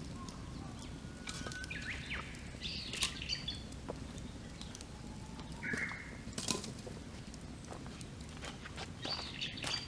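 Wood campfire crackling with a few sharp pops, while wild birds call and chirp intermittently around it.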